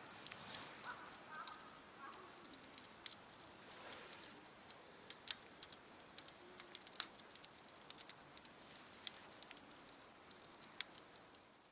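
Small wood campfire crackling, with irregular sharp pops and snaps over a faint hiss. A faint bird call sounds about a second in.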